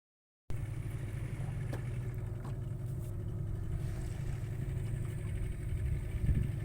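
A small boat's engine running steadily: a low, even drone.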